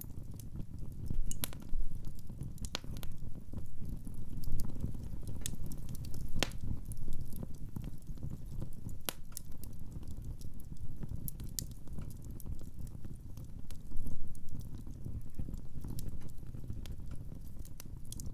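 Wood fire burning in a fireplace, crackling: irregular sharp pops and snaps over a low, steady rumble of flame.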